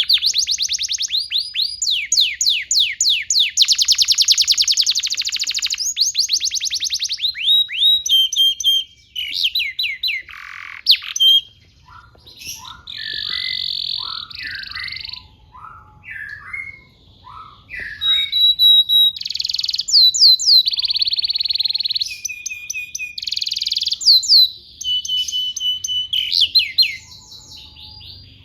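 Male canary singing a long song: fast rolling trills of rapidly repeated notes, interspersed with clear whistled tones and chirps, with a softer, more varied passage in the middle.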